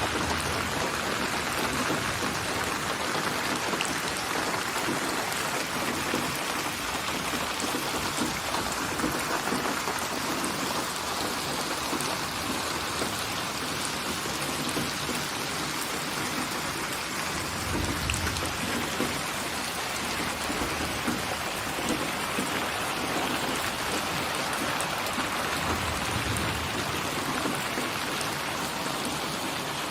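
Steady rain falling, with two brief low rumbles in the second half.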